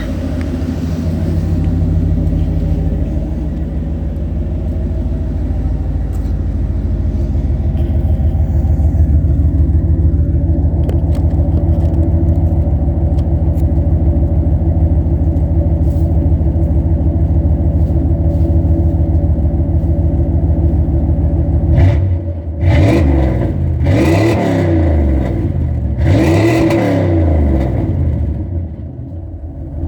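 Ford 460 big-block V8 running through 3-inch dual exhaust with an X-pipe, stacks and Jones Full Boar mufflers: a steady idle, then several quick revs about two-thirds of the way in, each rising and falling back, before it settles to idle again.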